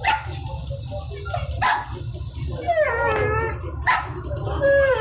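A dog whining and yipping: about three sharp short yips and two drawn-out, wavering whines, over a steady low hum.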